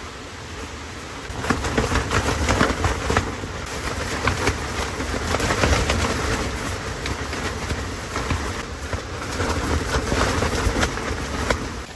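Thunderstorm rain and wind pelting a tarp stretched over a truck-bed tent, a dense patter of sharp hits over a low rumble that gets much louder about a second in.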